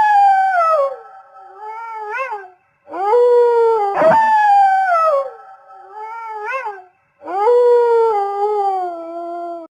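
Wolves howling: three long howls with two voices overlapping, their pitch sliding downward, the last cut off suddenly near the end.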